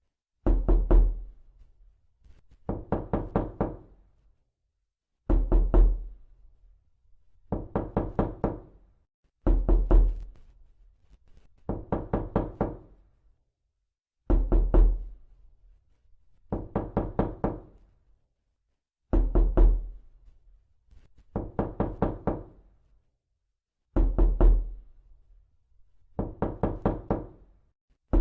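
Repeated knocking: about a dozen bursts of four to six quick knocks, one burst every two seconds or so, with a short silence between bursts. Some bursts open with a heavier, deeper thud.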